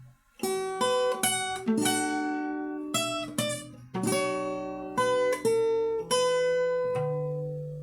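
Solo acoustic guitar playing fingerstyle: plucked notes and chords that ring and decay one after another, with a short gap at the start and a bass note held near the end.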